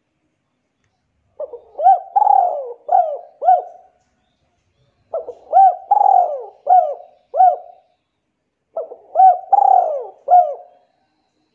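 A bird calling: three repeated phrases of four or five short notes each, spaced a few seconds apart.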